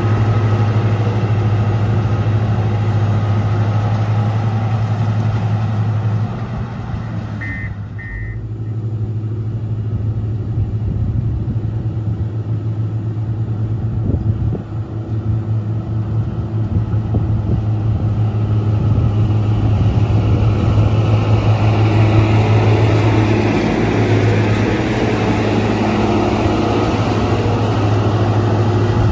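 Motor grader's diesel engine running steadily under work, easing off for a few seconds about a quarter of the way in, then picking up again. Two short high beeps sound as it eases off.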